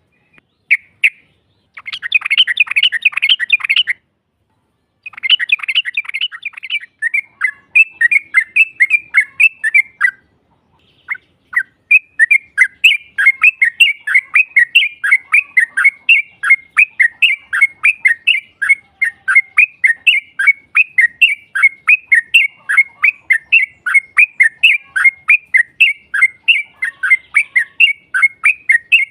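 Yellow-vented bulbul song: two short bursts of fast chatter, then a long rolling run of bubbly notes repeated about three times a second, broken by two short pauses.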